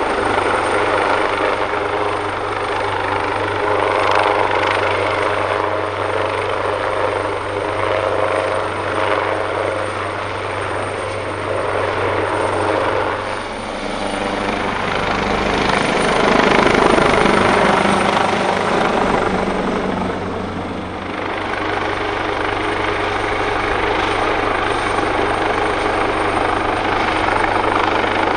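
AgustaWestland AW139 helicopter running, its two Pratt & Whitney Canada PT6C turboshaft engines and five-bladed rotor making a continuous loud noise with a steady low tone beneath. The sound swells for several seconds a little past halfway, then settles back.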